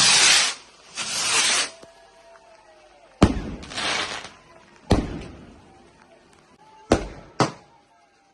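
Fireworks going off: two long hissing whooshes, then four sharp bangs, the first two trailed by a fading hiss.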